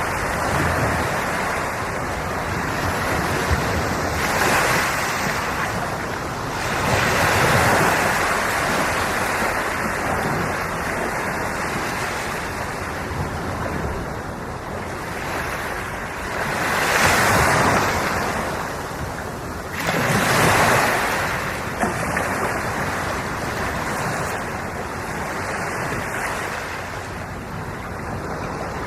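Sea waves washing ashore: a continuous rushing surf that swells four times as bigger waves break and then falls back.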